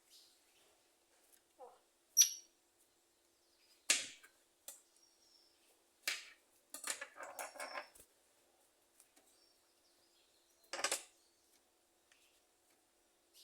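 Scattered clicks and knocks of small feeder pots and cage parts being handled, with a short run of clatter in the middle, and a few brief bird chirps.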